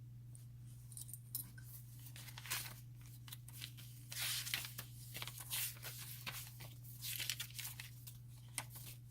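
Paper pages, tags and inserts of a handmade file-folder junk journal being flipped and handled: a run of quick rustles and crinkles, heavier about halfway through and again near the end, over a steady low hum.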